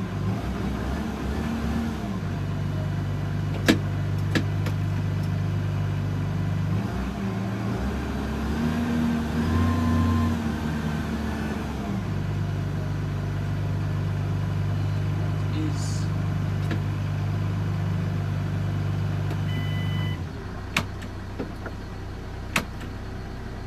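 JCB Fastrac 4220 tractor's engine running steadily as the tractor drives forwards, heard from the cab; the engine note shifts a few times and drops about 20 seconds in. A few sharp clicks sound over it.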